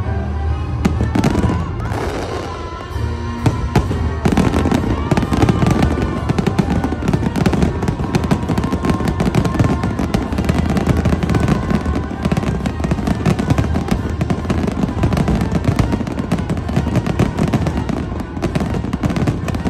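Aerial fireworks shells bursting and crackling in a dense, continuous barrage that thickens from about four seconds in.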